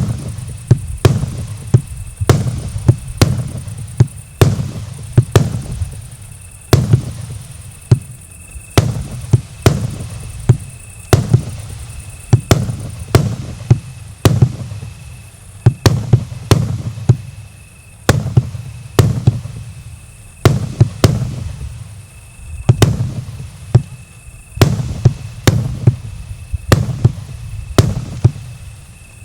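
A 220-shot firework cake of mixed 1 to 1.5 inch calibre firing continuously: sharp launch thumps and aerial bursts, about one or two a second.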